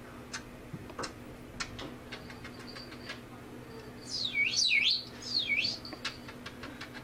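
Pet bird giving two quick, swooping chirps that rise and fall steeply in pitch, about four seconds in. Scattered light clicks and taps run through the rest.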